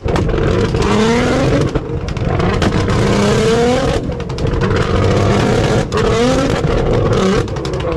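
A loud car engine revving hard several times, each rev sweeping up in pitch, over a steady low rumble.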